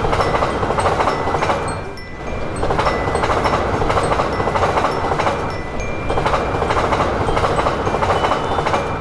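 Train passing at speed: a loud, steady rumble of wheels and rails that pulses unevenly, dips briefly about two seconds in, and cuts off suddenly at the end.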